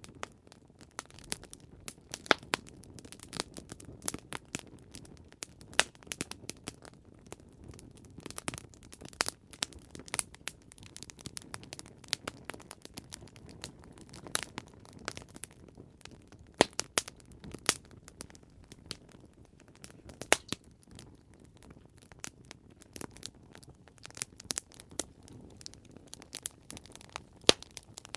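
Campfire crackling: burning wood gives off irregular sharp pops and snaps over a soft low rumble of flames, with a few louder pops now and then.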